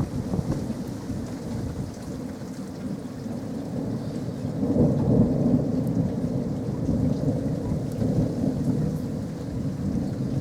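Thunder rumbling during a storm, swelling to its loudest about halfway through and then slowly dying away, with rain falling.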